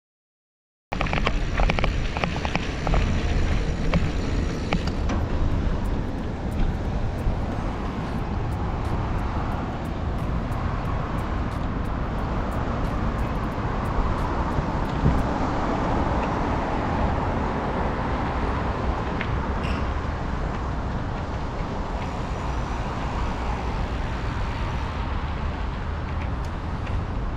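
Road traffic noise with low rumble from wind on the microphone, starting abruptly about a second in and running steadily.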